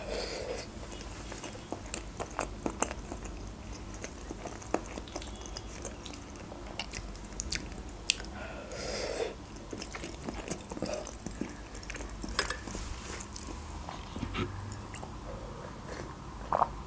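Close-up chewing and biting while eating baked julienne, with small clicks of a fork against a glass baking dish. Near the end, a short sip from a mug.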